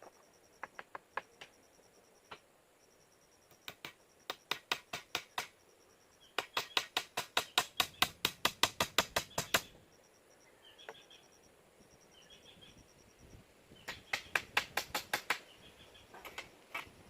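Rapid series of sharp knocks, about five a second, in three bursts: a short one early, a longer and louder one in the middle, and another near the end, with a few single clicks before them.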